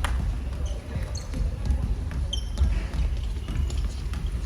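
Basketball bouncing on an indoor court during play, repeated thumps with a few short high squeaks.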